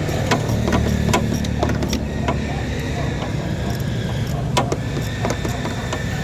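Car engine idling steadily, with scattered sharp clicks over the low rumble.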